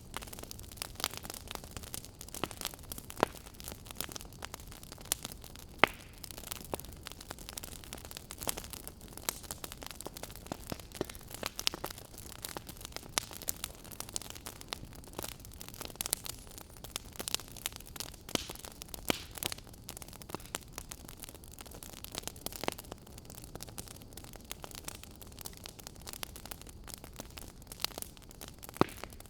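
Wood fire crackling in a fireplace: irregular sharp pops and snaps, a few of them louder, over a soft steady hiss of burning.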